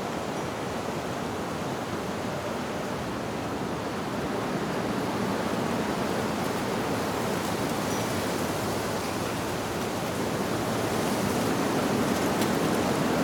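Wind blowing through leaves, a steady rushing that swells louder in the second half, with a couple of faint wind-chime tings.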